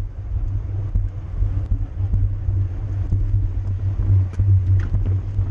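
Steady low wind rumble on the microphone of a camera moving at racing speed with a road bicycle, with a few faint clicks over it.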